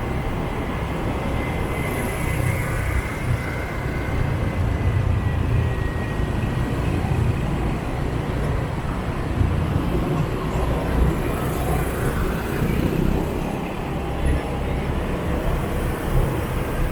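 Dense motorbike and scooter traffic heard from a moving motorbike: a steady low engine rumble and road noise from many small engines around it.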